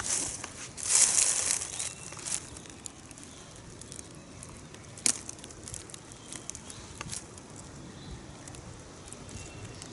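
A brief loud rustle about a second in, followed by quiet outdoor background with a few sharp clicks and faint crackles.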